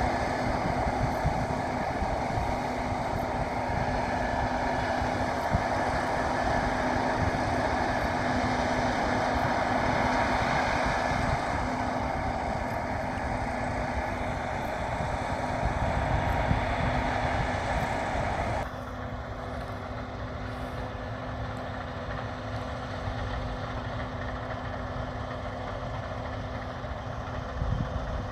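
Case IH 7150 combine harvester running steadily in a loud, even drone while working in wheat. About 19 s in the sound suddenly drops quieter and duller, its upper hiss gone, and it carries on at that lower level.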